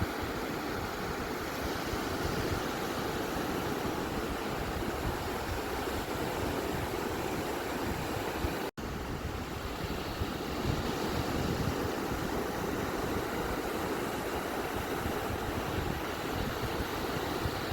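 Ocean surf on a beach as a steady, even wash of noise with no distinct breaking waves, cutting out for an instant about halfway through.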